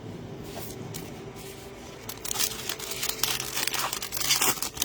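Plastic foil trading-card pack wrapper being torn open and crinkled in the hands, a dense crackle that starts about two seconds in and grows louder toward the end.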